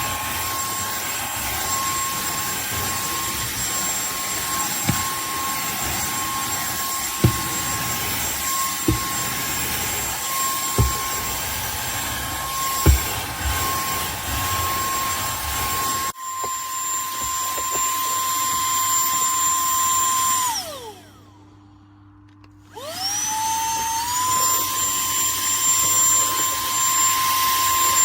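SERVOMASTER cordless handheld vacuum cleaner running with a steady high whine, with a few sharp clicks in the first half. About three-quarters through, it is switched off and the whine falls away. A couple of seconds later it is switched back on, and the pitch rises to full speed again.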